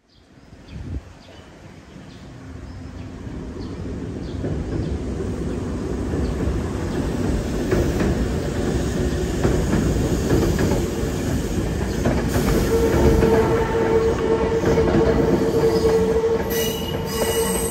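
Hankyu electric train passing. Its rumble grows louder over the first several seconds, and a steady whine joins in past the middle.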